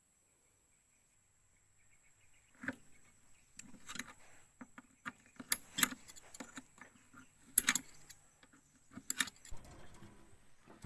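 Handling noises: a run of metallic clinks and knocks, as of small metal parts or tools being picked up, shifted and set down. Five sharper strikes stand out.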